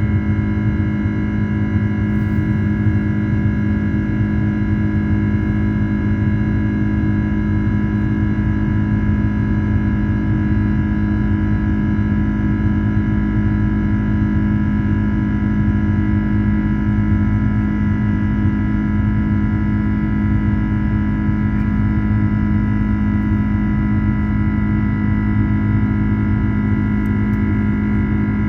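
Jet airliner cabin noise in flight shortly after takeoff: a steady low engine rumble with several constant whining tones over it.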